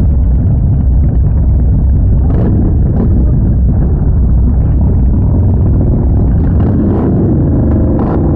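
Harley-Davidson V-twin motorcycle exhausts rumbling steadily.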